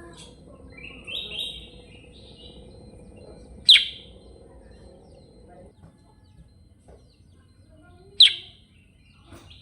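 Kutilang sutra, a sooty-headed bulbul, calling: a short chattering phrase about a second in, then two loud, sharp descending chirps about four and a half seconds apart.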